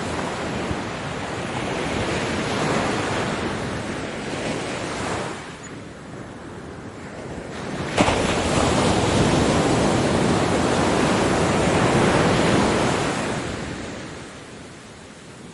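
Ocean waves breaking and washing up a beach, in two swells: the second, louder one starts with a brief click about halfway through and fades near the end.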